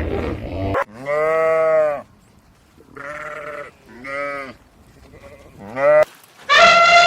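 Goats bleating: a long call that rises and falls in pitch about a second in, two shorter bleats in the middle, a brief one, and another long, loud bleat starting near the end.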